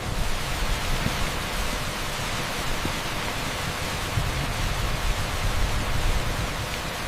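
Heavy rain pouring steadily onto an asphalt street, a dense even hiss over a low, uneven rumble.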